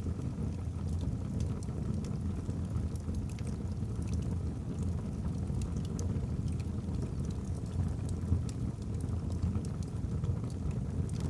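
Wood fire burning in a fireplace: a steady low roar of flames with scattered small crackles and pops from the burning logs, one pop a little louder about eight seconds in.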